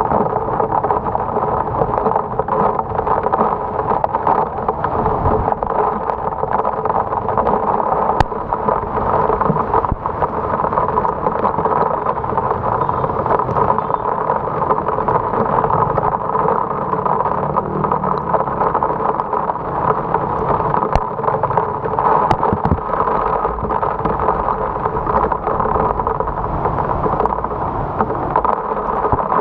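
Heavy rain and traffic noise heard from a moving motorcycle: a steady, muffled wash of rain and road noise, with a few sharp clicks.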